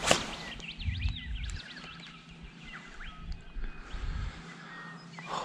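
Birds singing, a busy stream of quick whistled chirps and trills, over a low uneven rumble. A single sharp knock comes right at the start.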